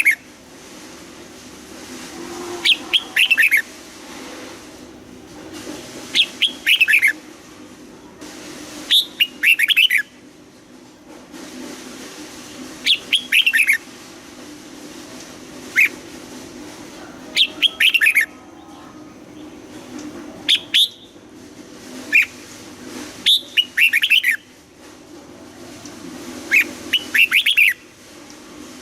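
Red-whiskered bulbul singing short, bright whistled phrases of a few quick notes, repeated every two to four seconds, about ten phrases in all.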